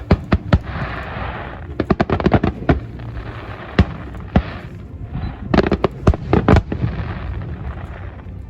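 Fireworks going off in quick volleys of sharp bangs, in clusters at the start, around two seconds in, and again between about five and a half and six and a half seconds, with a hissing crackle between the volleys.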